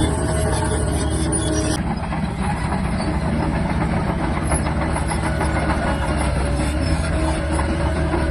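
Shantui DH17-C3 bulldozer working, its diesel engine droning steadily under a fast clatter of steel tracks. A higher hiss fades out about two seconds in.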